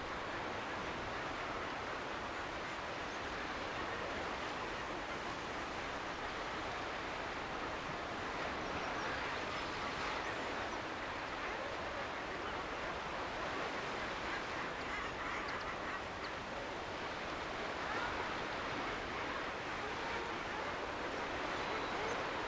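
Seabirds calling over the steady wash of the sea below the cliffs.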